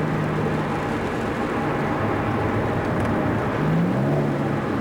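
Car engine and road noise heard from inside the moving car's cabin, a steady low engine note that rises briefly in pitch about three and a half seconds in as the car picks up speed.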